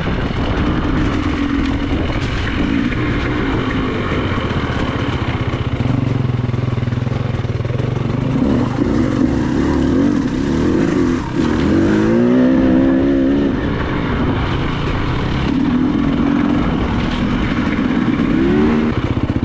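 Enduro motorcycle engine running under way, its revs rising and falling as the throttle is worked, with sharper rev rises about two-thirds of the way through and again near the end.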